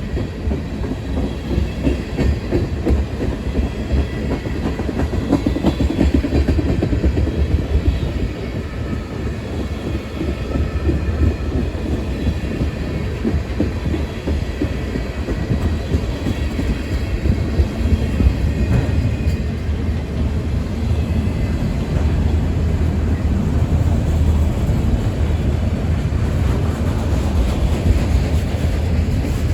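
CSX freight train rolling past, a steady loud rumble of steel wheels on the rails with faint higher wheel tones over it.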